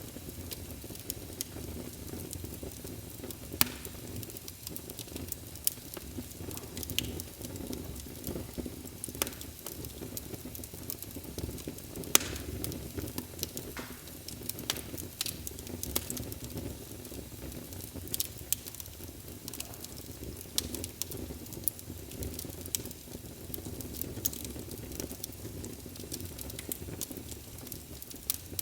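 Wood fire burning in a fireplace: a steady low rumble of flame with irregular sharp crackles and pops, one louder pop about twelve seconds in.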